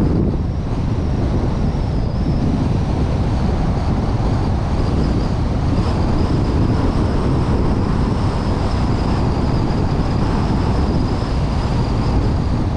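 Steady driving noise of a vehicle on a mountain road: wind rushing over the suction-mounted camera and a low road rumble, with a faint high whine.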